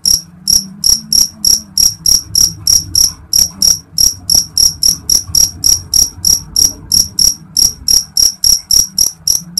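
A cricket chirping loudly and close, in short, evenly spaced high chirps at about four a second.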